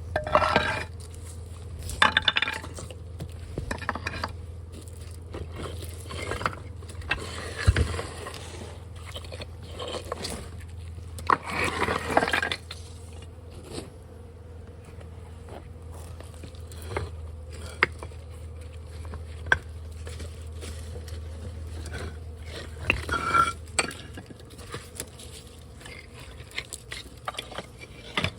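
Irregular scraping and crunching as a tool works material out of the wall cavity around the hive, with scattered sharp clicks, over a steady low hum.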